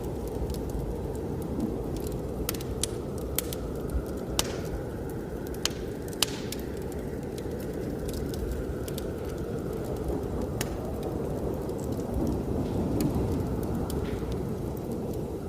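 Wood fire crackling in a fireplace, with sharp pops scattered mostly through the first half, over a steady low rumble of blizzard wind.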